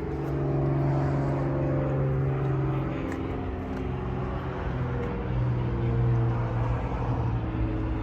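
Diesel engine of a 2014 Isuzu NPR box truck idling steadily.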